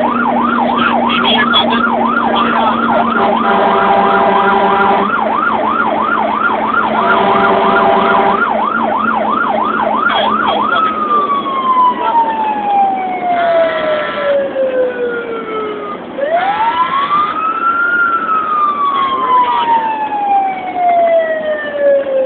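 Fire engine siren sounding on an emergency response. It runs a fast yelp, about two and a half sweeps a second, for about ten seconds, then switches to a slow wail that falls, rises again and falls away. Short steady horn blasts sound over it four times.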